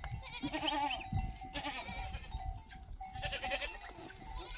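Goats bleating, several wavering calls one after another.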